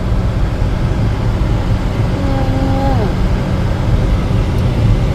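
Steady low rumble of road noise from a moving vehicle, with a short drawn-out voice about two seconds in.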